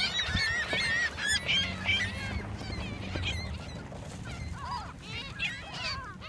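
A flock of gulls calling, many short cries overlapping, busiest in the first couple of seconds and thinning a little in the middle. A low steady rumble sits under them for a few seconds.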